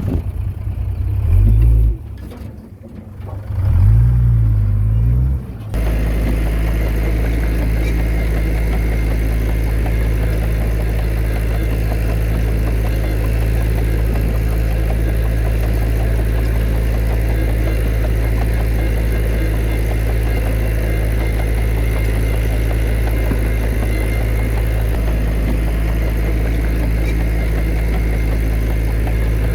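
Heavy diesel engine of earthmoving machinery running: an uneven low rumble for the first few seconds, then from about six seconds in a constant, unchanging drone.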